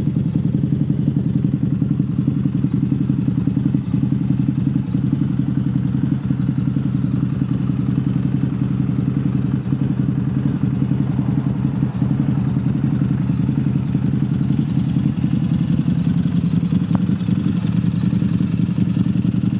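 Harley-Davidson V-Rod Muscle's 1247 cc liquid-cooled DOHC V-twin running steadily at idle through Vance & Hines dual straight pipes, with an even, deep pulsing exhaust note.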